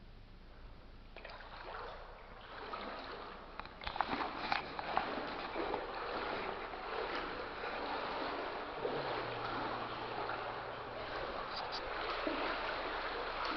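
People wading through water: legs sloshing and splashing steadily, starting about a second in, with a few sharper splashes around four to five seconds in.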